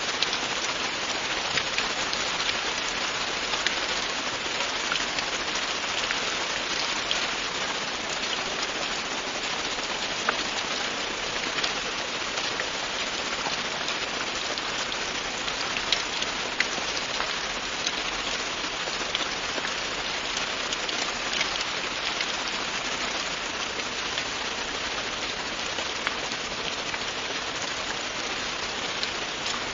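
Steady, continuous rainfall: an even hiss of rain with scattered individual drop splashes standing out here and there.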